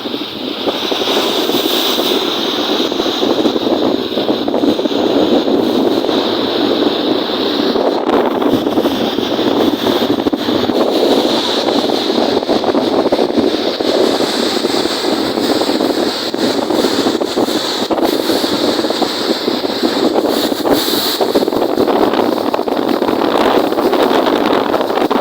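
Wind and choppy lake waves: a loud, steady rushing wash of wind and water, with gusts buffeting the microphone.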